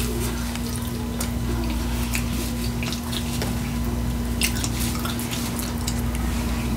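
Close-miked chewing of taco salad: soft, wet mouth clicks and smacks at irregular moments, over a steady low hum.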